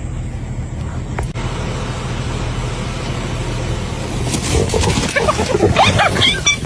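A steady low engine hum, like a vehicle idling. From about four seconds in, a chorus of many short, high animal calls and squeals, bending up and down and overlapping, rises over it and grows louder.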